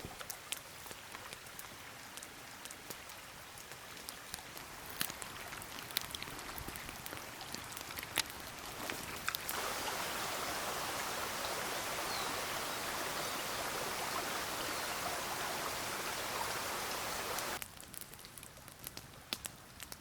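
Water sounds: scattered drop-like ticks over a faint hiss, then a louder steady rush of water that starts abruptly about halfway through and cuts off suddenly near the end.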